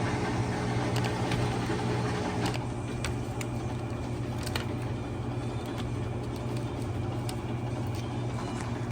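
Dishwasher pump motor running with a steady hum; part of the sound drops out about two and a half seconds in, leaving the lower hum, with a few light clicks.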